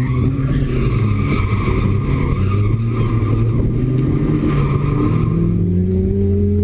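BMW M42B18 1.8-litre four-cylinder engine running hard at high, steady revs during a drift, heard from inside the cabin, with tyres squealing as the car slides. The squeal fades about five seconds in and the revs climb slightly near the end.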